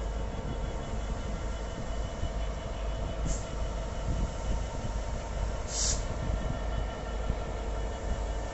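A train at a station platform running steadily, with a low rumble and a faint steady hum, and two short hisses, a faint one a little over three seconds in and a louder one near six seconds.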